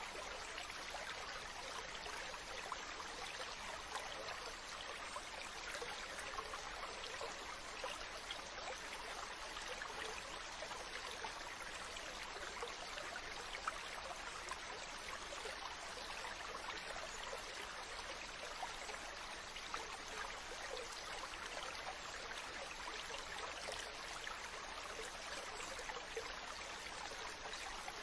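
Water trickling and splashing steadily, an even hiss full of tiny drips.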